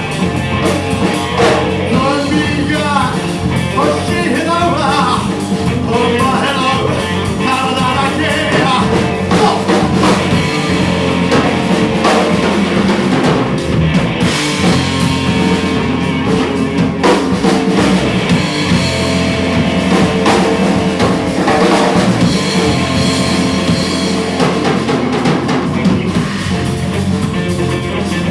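Rock band playing live, with drums and a singer's voice in the first third, after which the instruments carry on alone.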